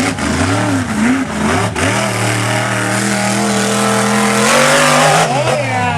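Monster truck engine at racing revs: the pitch rises and falls for the first couple of seconds, holds high and steady under full throttle for a few seconds, then drops off near the end as the driver lifts.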